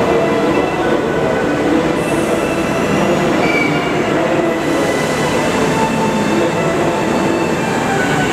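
Electric train running along the platform: a steady rumble of wheels on rail, with short faint high tones scattered through it.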